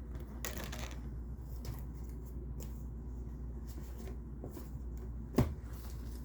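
Tarot cards being shuffled and handled: soft, scattered rustles and flicks over a steady low hum, with one sharp tap about five seconds in.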